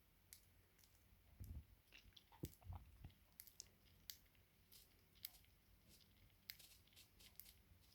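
Faint, irregular sharp clicks and crunches of a budgie's beak pecking at and husking seed in a hand, with a couple of soft low thumps about a second and a half in and again around three seconds.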